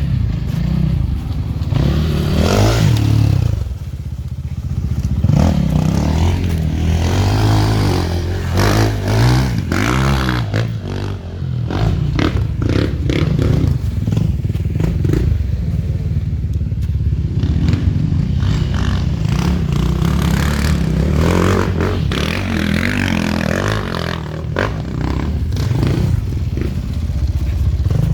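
Enduro motorcycle engine revving up and down as the bike is ridden over rough ground, with knocks and clatter.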